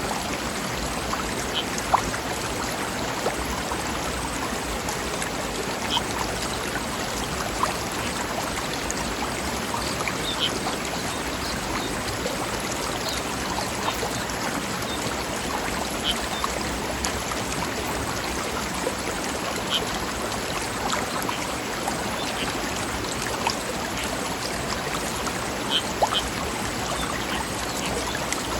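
Mountain stream flowing over rocks: a steady rush of water with scattered small splashes and plinks every few seconds.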